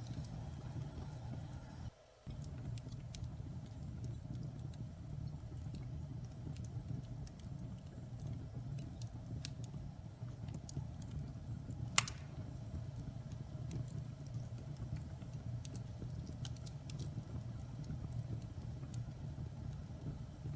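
Wood fire burning in a fireplace: a steady low rumble of flames with scattered small crackles and one loud sharp pop about twelve seconds in. The sound briefly drops out about two seconds in.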